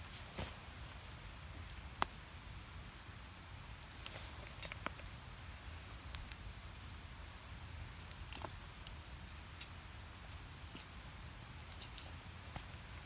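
Wood fire crackling in a small steel fire stand: split firewood burning with scattered sharp pops and snaps over a low steady rumble, the loudest pop about two seconds in.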